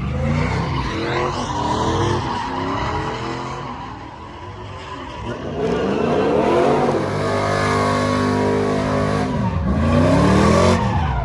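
A truck engine revving hard, its pitch sweeping up and down several times and held high for a few seconds late on, while the tyres squeal in a burnout.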